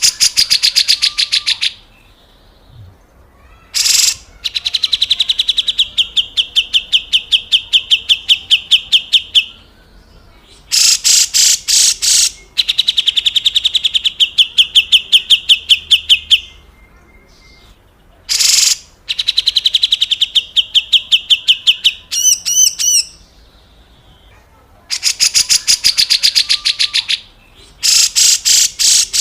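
Cucak jenggot (grey-cheeked bulbul) giving its harsh 'besetan kasar' calls: loud, rapid rattling trills lasting a few seconds each, repeated after short pauses, some rougher and noisier than others. A brief warbled phrase comes about 22 seconds in.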